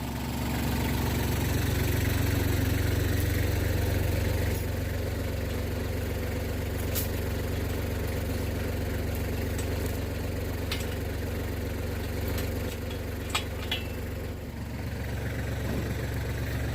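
An engine running steadily at idle, with a few short sharp knocks partway through.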